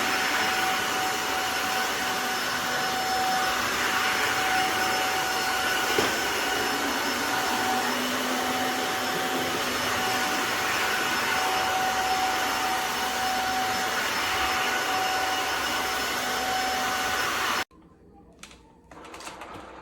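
Tineco Floor ONE S5 cordless wet-dry vacuum running steadily with a high whine over its motor noise, then shutting off abruptly near the end.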